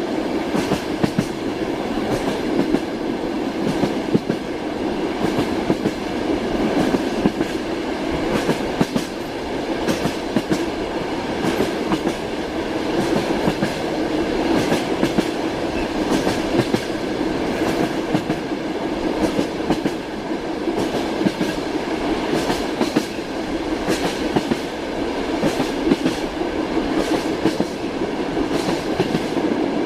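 Train wheels running on rails: a steady rumble with frequent sharp clicks and knocks as the wheels cross rail joints.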